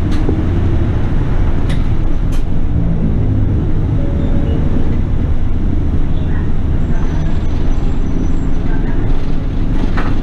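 Toei city bus running, heard from inside: a steady low engine and road rumble, with a few sharp clicks near the start and again near the end.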